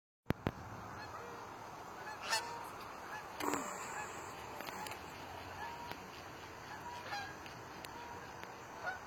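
Short, scattered bird calls over a steady outdoor hiss, which cuts in and out abruptly.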